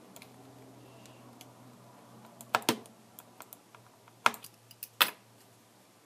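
Several sharp clicks and taps, with lighter ticks between them, as tablet parts and small tools are handled. The loudest come in a close pair about two and a half seconds in, then again at about four and a quarter and five seconds.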